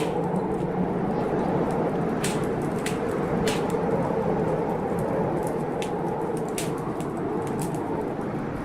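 Wood fire in a fireplace crackling, with a few sharp pops at irregular intervals, over a steady rumble of storm rain and wind.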